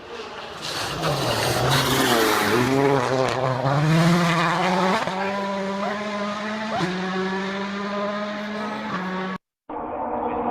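Rally car engine at high revs, its pitch dipping and climbing over the first few seconds, then holding steady with a couple of brief blips, over a hiss of tyre noise. The sound drops out for a moment near the end.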